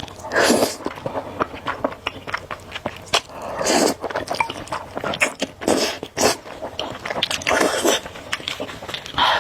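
Close-miked eating of spicy instant noodles: several long slurps a couple of seconds apart, with wet chewing and mouth clicks in between.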